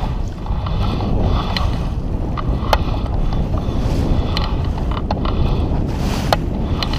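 Strong wind buffeting the microphone, with sharp knocks a second or so apart from a little under three seconds in.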